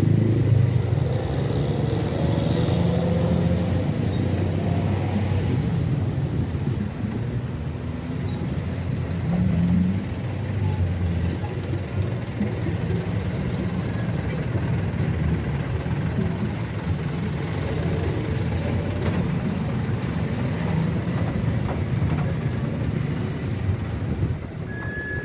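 Heavy trucks driving past on a road, their engines running with a steady low drone amid traffic noise.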